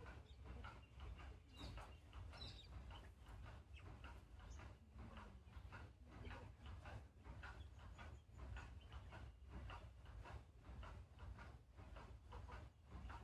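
Water falling onto plant leaves, a faint, quick, irregular patter of drips and splashes over a low rumble, with a few short bird chirps in the first few seconds.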